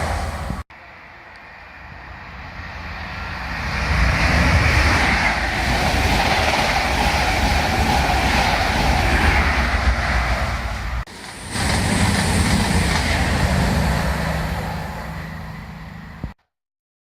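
Train running through a station: a loud, steady rush with a low hum underneath that builds over about three seconds. The sound breaks off sharply twice at edits, about eleven seconds in and again near the end.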